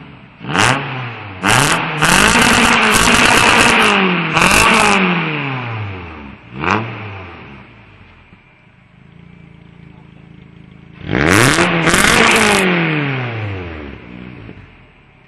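Renault 19 16V's 16-valve four-cylinder engine free-revved through an aftermarket Mugen exhaust. Two quick blips, then a longer rev held high for a few seconds, another short blip, a few seconds of idle, and a final long rev that falls back to idle.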